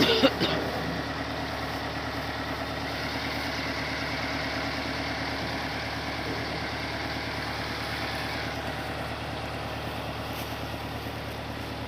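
Tractor engine running steadily under load while driving a threshing machine. A few loud knocks come right at the start.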